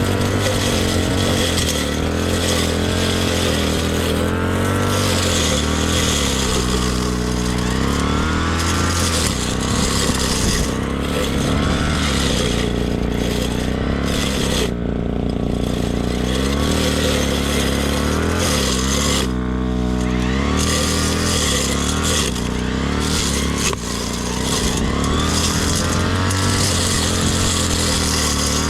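Petrol brush cutter (grass-cutting machine) running steadily at high revs. Its engine speed dips and picks up again twice, about a quarter of the way in and again about two-thirds through.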